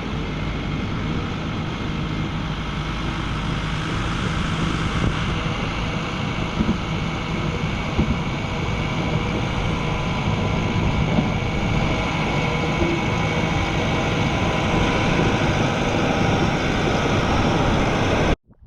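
Diesel engine of heavy earthmoving equipment running steadily under work, with a few light knocks; it cuts off abruptly near the end.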